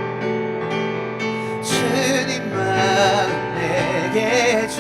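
Worship song accompaniment: a keyboard playing sustained chords, with a voice joining about two seconds in on a held, wavering note.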